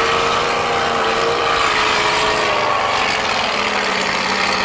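Demolition derby cars' engines running together, a steady blend of engine noise with a held tone and a lower tone joining in near the end.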